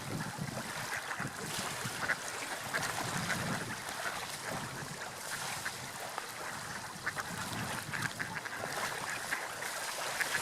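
Seagulls calling again and again over a steady wash of sea waves and wind.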